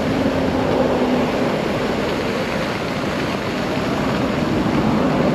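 Steady rushing noise of wind and tyres while riding the ONYX RCR 80v electric moped, with a faint electric hum coming and going.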